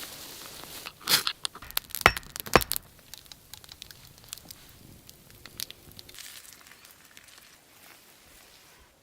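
Rustling and crackling with a cluster of sharp cracks about one to three seconds in, then sparser faint clicks.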